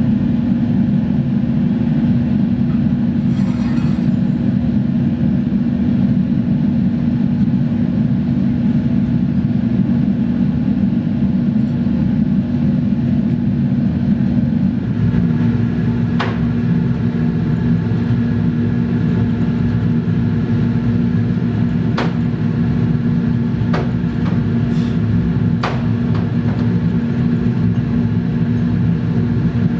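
A workshop machine runs with a loud, steady humming drone. About fifteen seconds in its tone shifts slightly, and a few sharp clicks or knocks are heard over it in the second half.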